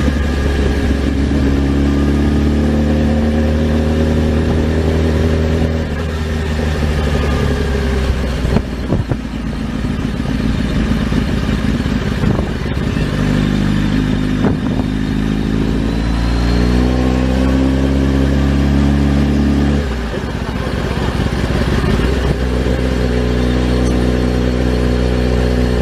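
Motorcycle engine pulling under throttle, its note climbing slowly. It drops back at a gear change about six seconds in and again near twenty seconds, then climbs again. A rougher stretch in between carries a few knocks.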